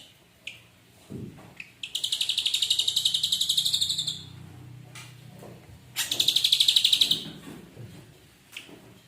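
Ashy drongo singing: a short chip, then two loud, fast rattling trills of about fifteen notes a second, the first lasting about two seconds and the second about one.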